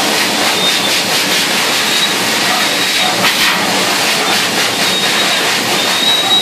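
Blow dryer running steadily: a loud, even rush of air.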